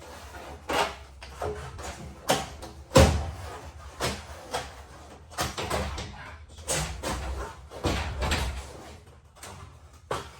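Irregular knocks and clunks, about a dozen of them, the loudest about three seconds in, fading off near the end.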